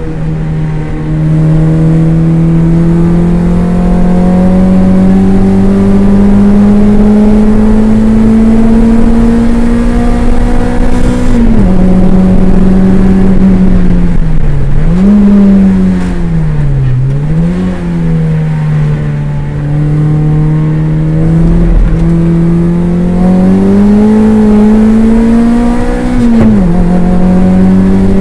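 Toyota MR2 race car's engine heard from inside the cabin, pulling steadily up through the revs. Revs drop sharply about eleven seconds in, dip and rise twice a few seconds later as the car slows for a corner, then climb again and drop at a gear change near the end.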